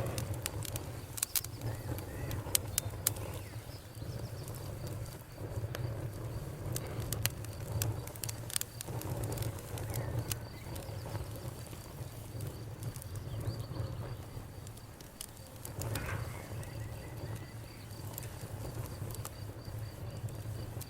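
Campfire burning, with sharp, irregular crackles and pops over a steady low rumble. The pops come thickest in the first few seconds, then turn sparser.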